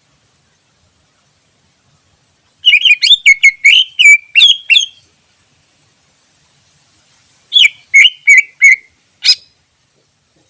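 Green leafbird (cucak ijo) singing: two phrases of quick whistled notes, the first a run of about a dozen notes starting a couple of seconds in, the second shorter, near the end.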